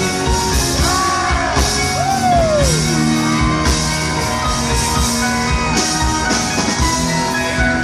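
Southern rock band playing live through a concert sound system: drums and bass under sustained guitar and keyboard notes, with slide-guitar notes gliding up and down about a second in.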